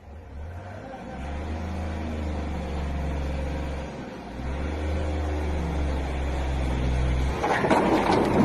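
Truck engine running hard as the truck is driven, its note dropping briefly about four seconds in and then picking up again. Near the end it gives way to a loud rushing, clattering noise.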